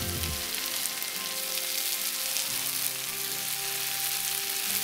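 Chicken in thick masala sizzling steadily as it fries in a skillet, the gravy being cooked down until dry. Soft background music with held notes plays underneath.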